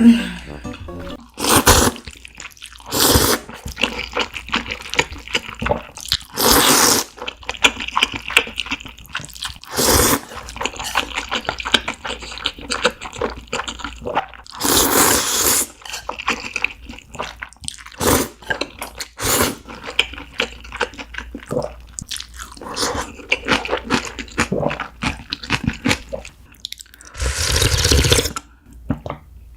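Close-up eating sounds of kongguksu, cold noodles in soybean-milk broth: several loud slurps of noodles and broth, with wet chewing and mouth clicks between them.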